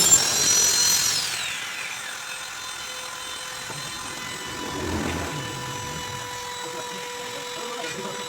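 A high-speed woodworking power tool whines loudly, then is switched off about a second in, its pitch falling as it spins down. A faint steady hum remains after it stops.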